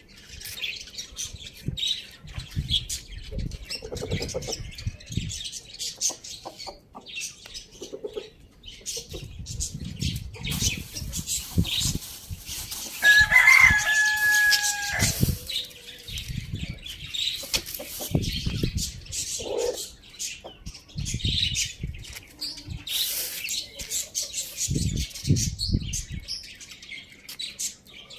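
Chickens clucking and flapping their wings, with scattered short knocks and rustles and one short, steady-pitched call about halfway through.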